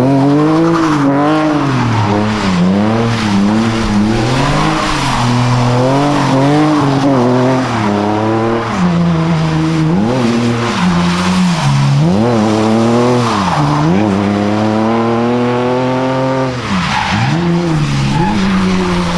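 A car engine revving up and down again and again, about once a second, with one longer climb near the end, while its tyres squeal and skid on the pavement: a car doing donuts.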